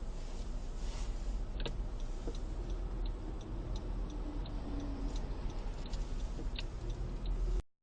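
Car turn signal ticking evenly, about three clicks a second, over a steady low rumble in the cabin. The sound cuts off abruptly near the end.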